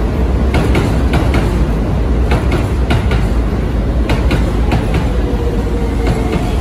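Keisei electric commuter train running past on an elevated track: a steady rumble with pairs of sharp clicks as the wheels cross rail joints and points. Near the end a faint whine falls in pitch.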